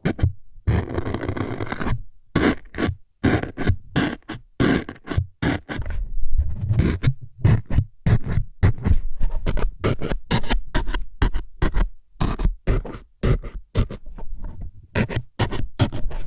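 Close-miked ASMR stabbing sounds: quick scratchy jabs at the microphone, about two to three a second in an uneven rhythm, with a longer scraping rub about a second in.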